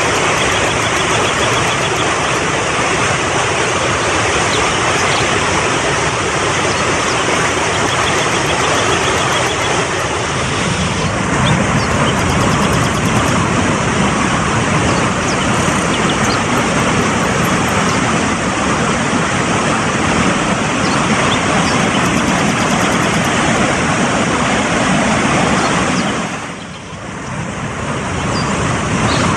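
Fast-flowing mountain stream rushing over rocks, a steady full rush of water, with faint high trills now and then above it. The rush dips briefly about 27 seconds in, then comes back.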